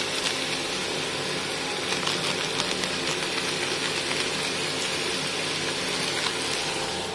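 Chicken pieces frying in a wok, a steady sizzle with a few faint clicks.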